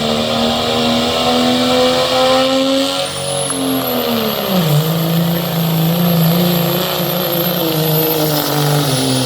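Modified diesel pickup engine running hard while pulling a sled. About three seconds in its pitch sags and stays lower, as the truck bogs down and struggles. A high whistle rises at about the same moment and holds nearly to the end.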